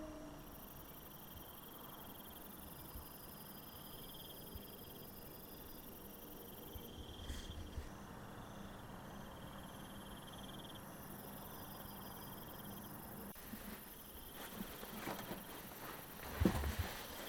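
Crickets chirping in repeated trills a second or two long, over a faint high-pitched insect hiss. A few soft knocks and rustles near the end.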